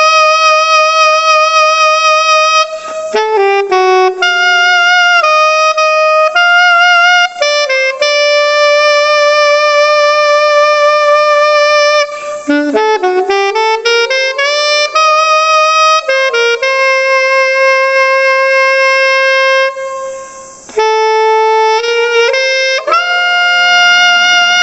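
Unaccompanied alto saxophone playing a slow melody of long held notes with light vibrato, with a rising slide about halfway through and a brief break for breath about 20 seconds in. It is played on a non-classical mouthpiece chosen for a sharper attack than a classical tone.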